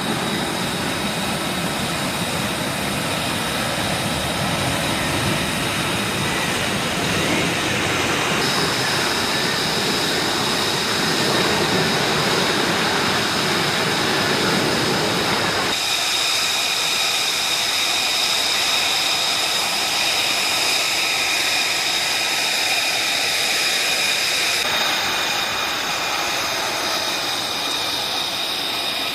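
F-35B Lightning II's jet engine running loud and steady, a high whine over a rumble. The sound changes abruptly three times, about 8, 16 and 25 seconds in.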